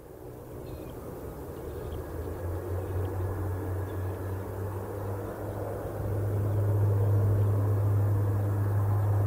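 Jet airliner engines rumbling with a steady low drone, growing steadily louder over the first six seconds and then holding loud.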